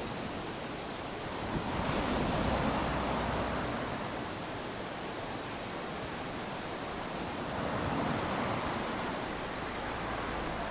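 Small waves lapping onto a sandy beach: a steady wash of surf that swells twice, about two seconds in and again about eight seconds in.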